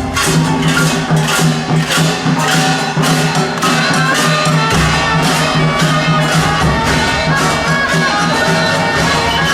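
Traditional procession music: a steady percussion beat of about three strokes a second under sustained, reedy melodic tones.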